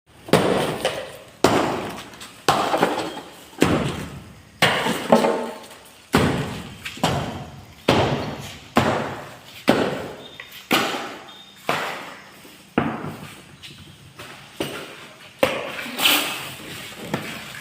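Repeated hammer blows, about one a second, each a sharp strike followed by a short ringing decay.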